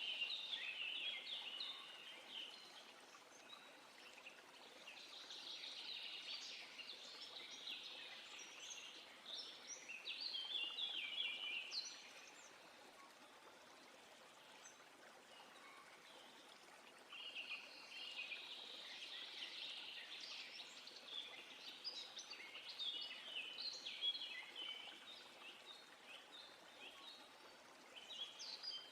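Songbirds singing in busy chirping phrases that come in bouts several seconds long, with quieter pauses between, over a faint steady background hiss.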